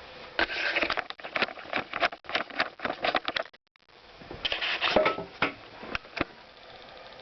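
Irregular crackling and popping bubbling noise from the opened Honda CX500 engine, in two spells with a brief pause between them.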